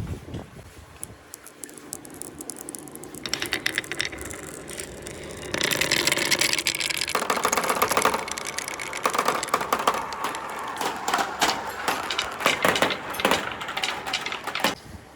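Marbles rolling and clattering down a marble run track: a dense rattle of many quick clicks over a rolling rumble, which grows louder about five seconds in and then eases off toward the end.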